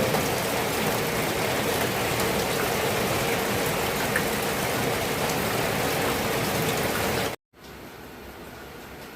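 Steady heavy rain falling. It cuts off suddenly about seven seconds in, leaving a much fainter steady hiss.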